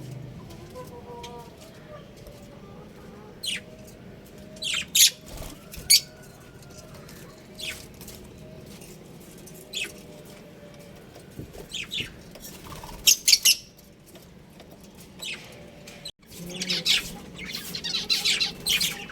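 Budgerigars chirping: short, sharp chirps at scattered moments, turning into dense, busy chirping from several birds near the end.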